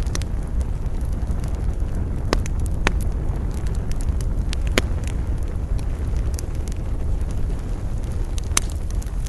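Wood campfire crackling, with scattered sharp pops, the loudest about halfway through and again near the end, over a steady low rumble of wind.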